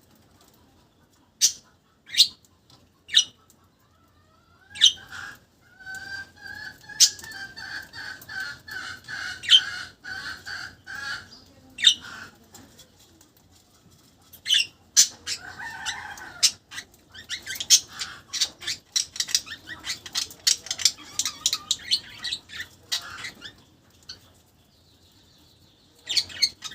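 A budgerigar chirping and warbling: scattered short sharp chirps, a several-second run of warbled chatter, then a dense spell of rapid chirps past the middle, the contented chatter of a happy budgie.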